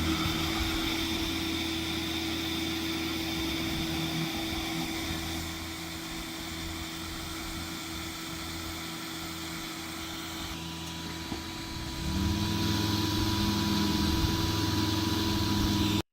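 Heavy truck engine running steadily, then rising in pitch and getting louder about twelve seconds in as the engine speeds up. The sound cuts off suddenly near the end.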